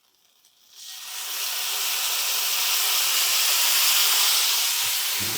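Olive oil from a can of mackerel hitting a hot pan of ham, bursting into a loud sizzle about a second in and frying steadily as the ham crisps. A couple of soft knocks near the end.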